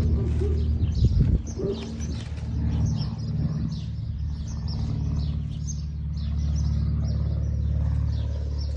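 Birds chirping: many short, high, falling peeps in quick succession, over a steady low hum.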